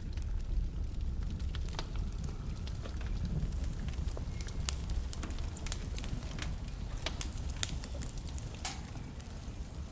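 Wood fire in a fireplace burning, with a steady low rumble and many sharp, irregular crackles and pops from the logs.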